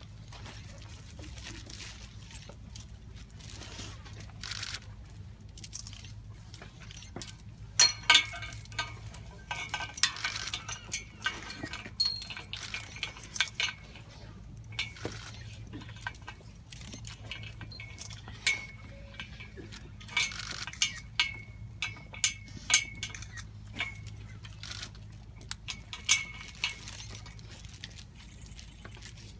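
Irregular metallic clinks and jingles, many short sharp clicks, some with a brief ringing tone, over a steady low hum.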